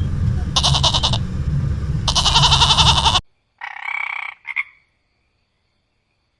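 Frog croaking: rapid pulsed calls, each about half a second long and repeated about every one and a half seconds over a steady low rumble, cutting off abruptly about three seconds in. Then a different short pitched animal call with a brief second call right after it.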